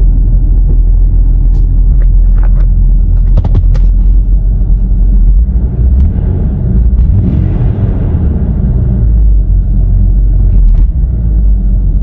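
Ford Ranger engine running through open headers and a down pipe with no muffler: a loud, steady low rumble. The engine note wavers up and down in the middle, with a few sharp clicks earlier on.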